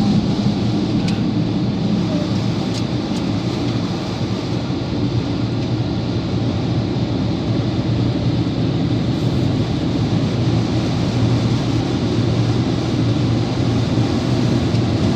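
Car wash equipment running: a steady rushing noise with a low hum underneath.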